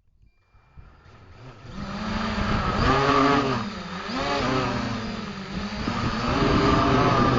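An engine revving, its pitch swinging up and down several times, fading in from silence over the first two seconds.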